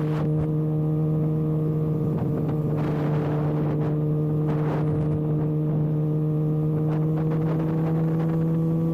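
Kawasaki ZX-6R inline-four with its exhaust canister removed, running at steady revs under way, its pitch creeping slightly upward.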